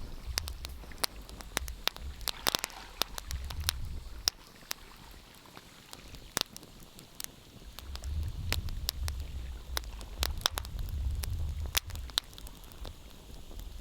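Wood fire crackling, with frequent sharp pops and snaps and a short hiss about two and a half seconds in. Under it, a low rumble swells and fades twice.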